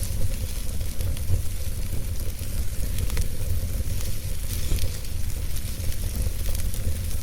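Wood fire in a fireplace crackling over a steady low rumble, with frequent small sharp pops and snaps scattered irregularly.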